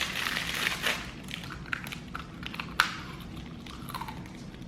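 Fortune cookie crackling and crunching as it is broken and eaten: a rustling crackle in the first second, then a few scattered sharp cracks, the loudest nearly three seconds in.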